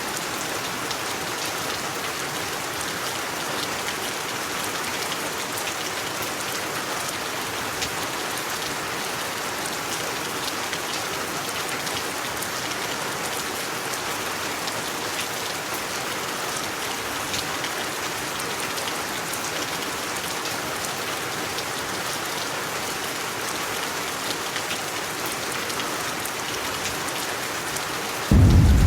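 Steady rain falling, a dense even hiss with many small drop taps. Just before the end a sudden loud low rumble starts.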